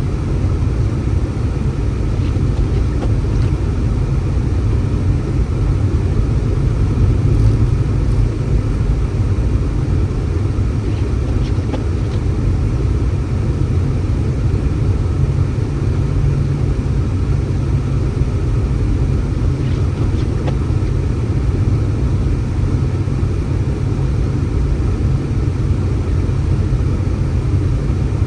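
Blizzard wind buffeting the microphone: a loud, steady low rumble.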